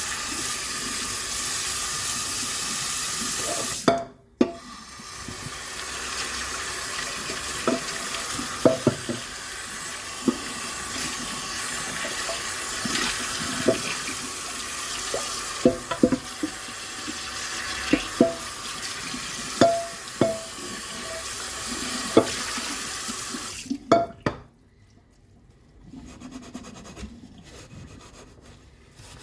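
Kitchen tap running into a sink while dishes are washed under it, with many sharp clinks of crockery knocking together. The running water stops briefly about four seconds in and shuts off near the end.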